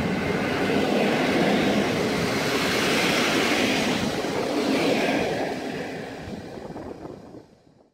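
Passenger train coaches rolling past as the train departs: a steady sound of wheels running on the rails that fades away after the last coach goes by, about five seconds in.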